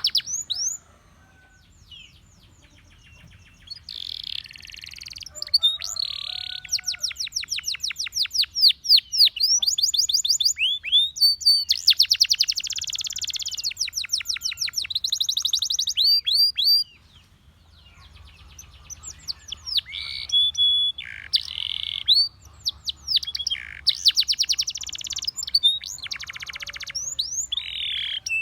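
Russian singing canary in full song: fast trills of rapidly repeated high notes and rolling phrases, broken by short pauses. It goes nearly quiet for a few seconds about a second in, and again briefly around two-thirds of the way through.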